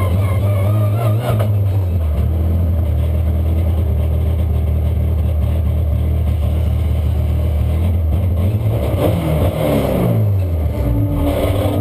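BMW E90 Super2000 race car's four-cylinder engine running at low revs, heard inside the stripped cabin; it holds steady for most of the time, then the revs drop about nine seconds in and pick up again near the end.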